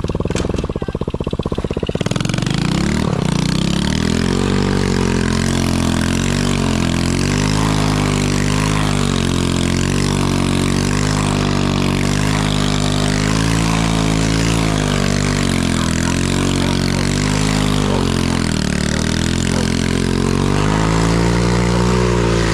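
Single-cylinder four-stroke engine of a small Chinese 110cc ATV running, low and pulsing at first, then revving up about two seconds in and rising and falling again and again with the throttle. A steady hiss runs underneath.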